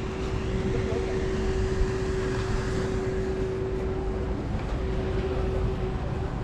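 A steady hum at one pitch over a constant rumbling noise, with the hum dropping out for a moment about two-thirds of the way through.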